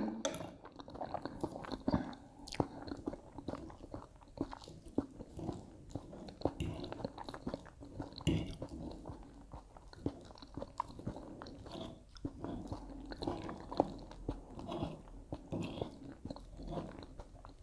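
A person chewing and biting food, with many small irregular crunches and clicks.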